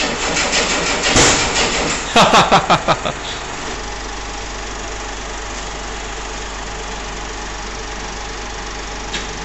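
Starter motor cranking the 1964 XM Ford Falcon's freshly reconditioned straight-six without it catching. The cranking goes in quick even pulses, then slows into a few heavy, uneven turns and stops about three and a half seconds in, typical of a flat battery.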